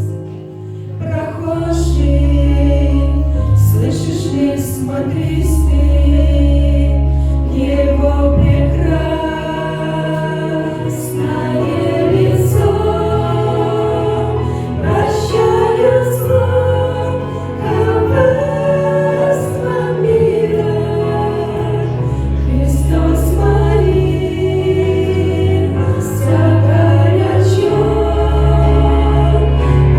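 A choir singing a Christian song over instrumental accompaniment with held bass notes.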